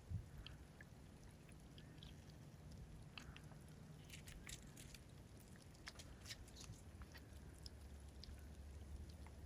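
Near silence: a faint low hum with scattered soft ticks and clicks, more of them from about four seconds in.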